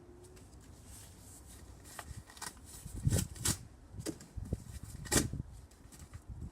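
A run of sharp knocks and thumps at irregular intervals: a vacuum cleaner pole striking a cardboard box. The loudest come as a pair a little after three seconds in and as one about five seconds in.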